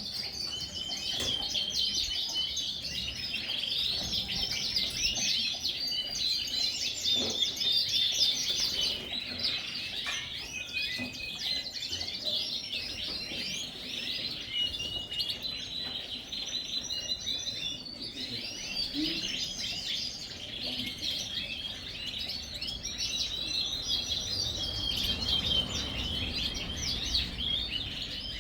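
A large group of Yorkshire canaries singing and chirping all at once: a dense, unbroken chorus of overlapping high trills and chirps.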